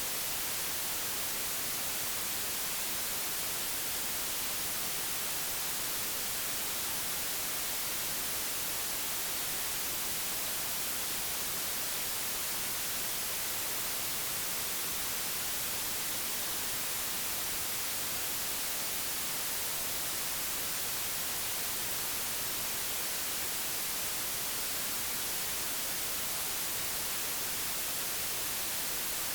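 Steady, unchanging digitally generated white noise: an even hiss across all pitches, brightest in the treble.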